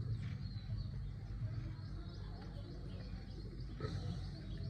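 Birds chirping in the background, a few short high calls, over a steady low rumble.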